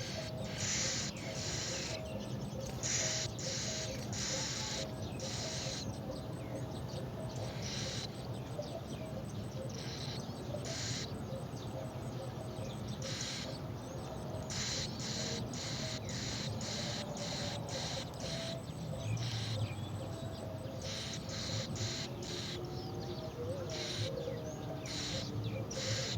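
Birds calling: many short, raspy high-pitched calls at an uneven pace, with fainter calls lower down underneath.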